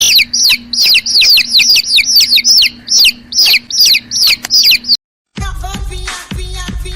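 A small bird chirping rapidly and loudly, a quick run of chirps that each slide down in pitch, for about five seconds. After a short gap, pop music with a heavy bass beat starts near the end.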